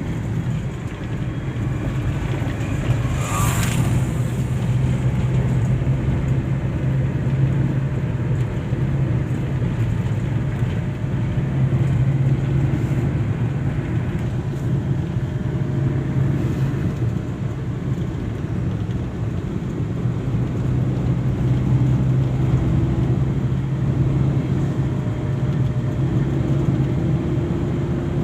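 Motor vehicle running steadily, its engine hum swelling and easing, with a brief hiss about three and a half seconds in.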